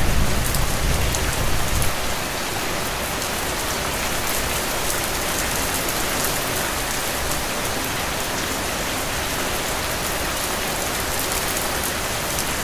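Heavy, steady rain falling on earth and puddles: an even hiss with fine spattering drops. For the first two seconds a low rumble sits under it, then drops away suddenly.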